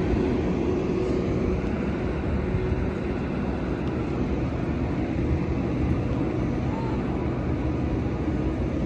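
Boeing 737-800 cabin noise: a steady low rumble, with a faint steady hum that fades out about two seconds in.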